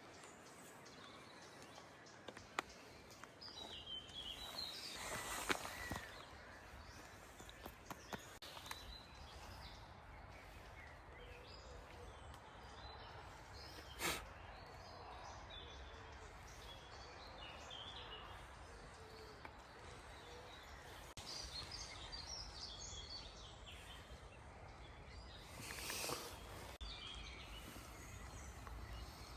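Faint forest ambience with small birds chirping in short bursts, over scattered light clicks and knocks, with one sharper click about halfway through.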